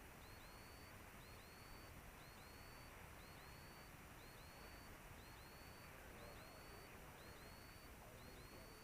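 Near silence: a faint steady hiss on the line.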